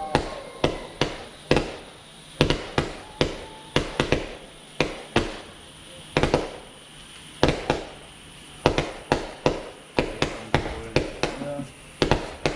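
Fireworks going off: a rapid string of sharp bangs, several a second in uneven clusters, each trailing off briefly.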